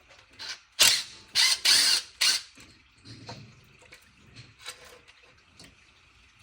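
Hand tools working bolts on a car engine: four short, loud bursts of ratcheting and metal clatter about a second in, followed by scattered faint clicks.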